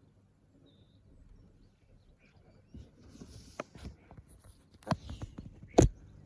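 Irregular knocks and rustling that start about two and a half seconds in, after near silence, with the loudest knock near the end.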